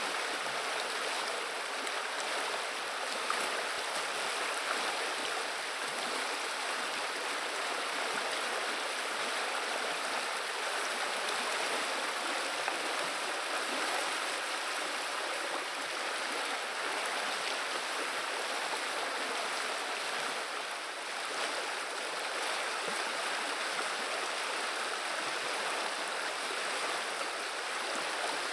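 Flowing river water babbling and rushing in a steady, unbroken stream.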